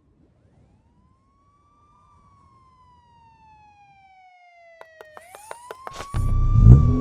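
A wailing siren that slowly rises and falls in pitch, faint at first and growing louder as it approaches. Near the end a quick run of clicks, about five a second, leads into a loud low rumble that rises in pitch.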